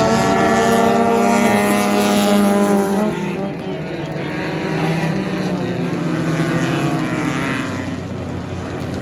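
Sports compact race car engine running hard at speed, passing close with its pitch falling slightly before dropping away about three seconds in. The engine is then heard more faintly, rising and falling as the car continues around the track.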